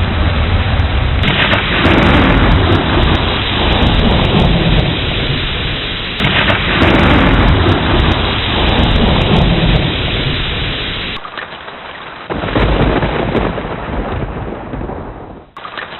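Thunderstorm: steady heavy rain with rolling thunder. Two loud rumbles break in suddenly, about a second in and about six seconds in, and the storm eases briefly after about eleven seconds.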